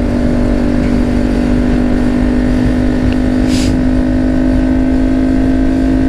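Kawasaki Ninja 400 parallel-twin engine running at a steady pitch while riding in second gear, with wind rumble on the camera microphone. A short hiss comes about three and a half seconds in.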